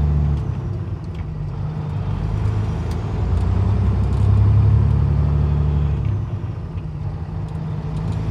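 Cat C-15 diesel engine of a Peterbilt 379 truck running at a low, steady drone, growing louder for a few seconds in the middle and easing off again.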